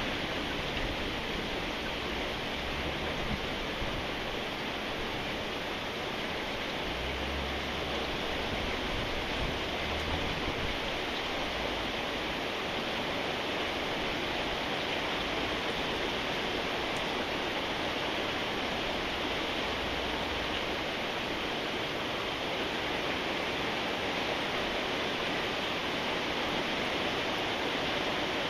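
Steady rain falling, an even hiss with a faint low rumble underneath.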